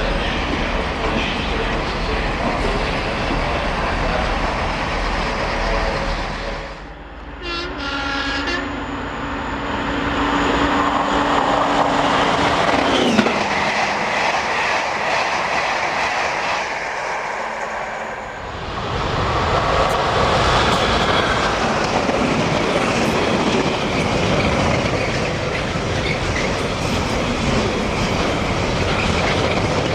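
Train running past at speed with steady rumble and wheel clatter on the rails. A low steady horn-like tone sounds for about four seconds in the middle and drops in pitch as it ends.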